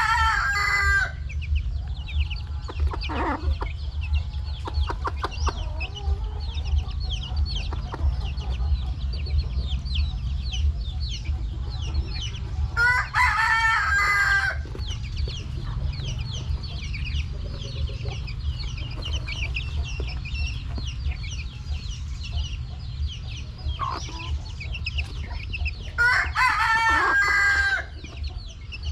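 A rooster crows three times, about thirteen seconds apart, over constant clucking and high peeping from a flock of chickens. A steady low hum runs underneath.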